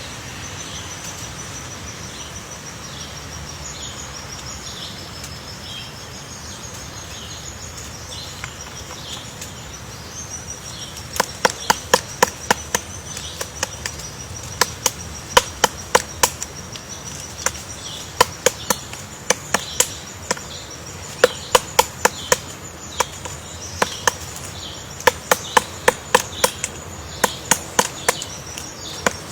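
Sharp knocks on wood in quick, irregular clusters, starting about eleven seconds in, over a steady, wavering high-pitched buzz.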